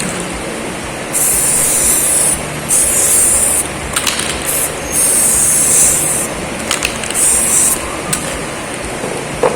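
Spray paint hissing in four short bursts of about a second each, with pauses between them, as the metal brace is given a coat of paint.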